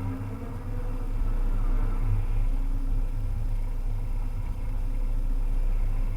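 Volvo EC300E excavator's diesel engine running steadily with a low rumble.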